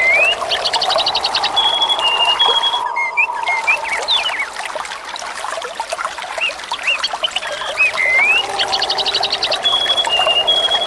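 Water flowing and trickling steadily, with small birds chirping, giving a quick trill and short whistled notes. The same string of bird calls comes round again about eight seconds later, as in a looped recording.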